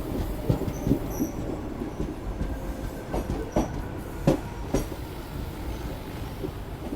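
Passenger train running on the rails: a steady low rumble with irregular clattering knocks of wheels over rail joints, growing sparser near the end.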